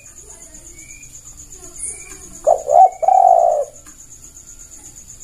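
Spotted dove (tekukur) giving one cooing phrase about two and a half seconds in: two short notes followed by a longer drawn-out coo. Faint high chirps from another small bird and a steady high pulsing insect-like hiss run underneath.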